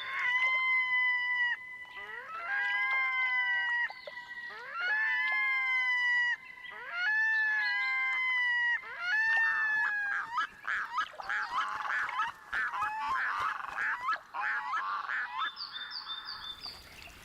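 Red-throated loons calling in a territorial display. Five long calls come one after another, each about a second and a half, then a run of quicker, overlapping calls lasts about five seconds.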